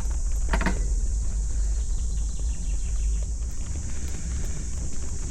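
Wind rumbling on the microphone during a bicycle ride, over a steady high hiss, with one brief pitched squeak about half a second in.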